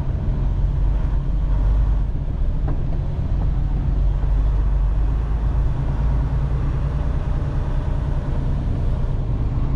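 Semi-truck diesel engine running at low speed, heard from inside the cab: a steady low rumble.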